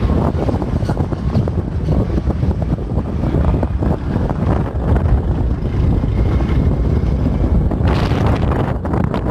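Heavy wind buffeting the microphone: a continuous low rumble, with a brief brighter hiss about eight seconds in.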